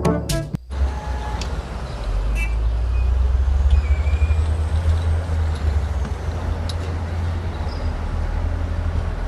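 A motor vehicle's engine running with a steady low rumble, with a few faint clicks over it.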